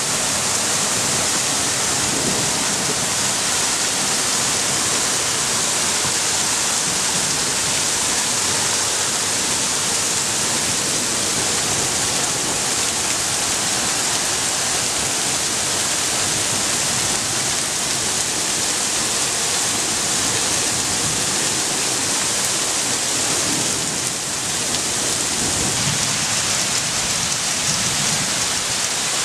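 Heavy hailstorm: hail and rain pelting down in a dense, steady hiss.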